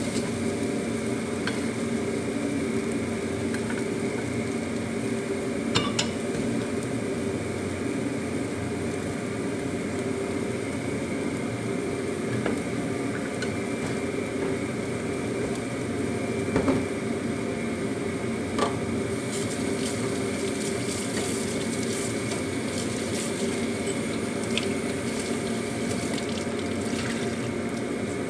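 Luffa and egg sizzling in a wok over a steady hum, with a few light clicks and knocks of a spatula against the pan.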